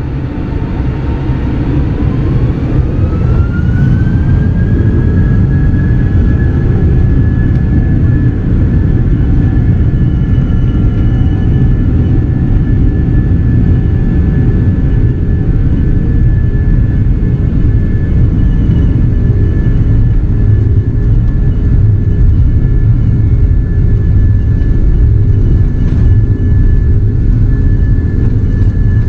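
Airbus A330-300 jet engines spooling up, heard from inside the cabin: a whine rises in pitch over the first few seconds, then holds steady over a loud, constant rumble, typical of the power-up for the takeoff roll.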